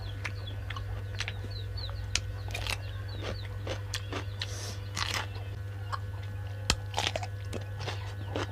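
Close-up chewing and crunching of food: irregular crisp crunches and mouth sounds of a person eating, over a steady low hum.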